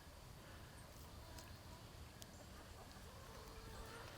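Very faint chicken clucking over quiet yard background, near silence.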